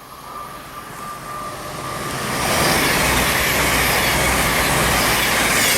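Virgin Class 221 Super Voyager diesel-electric multiple unit approaching and passing through the station at speed. The rush of wheels and air grows over the first two and a half seconds or so, then holds loud.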